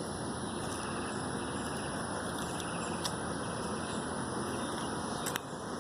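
Steady rushing noise of wind on the microphone while riding a bicycle, with a couple of sharp clicks about three seconds in and near the end.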